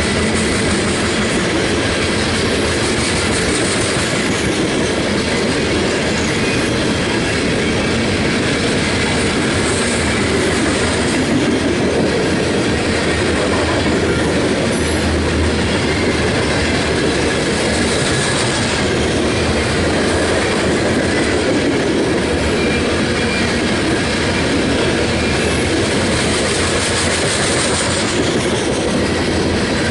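Freight train cars rolling steadily past, their wheels clicking over the rail joints.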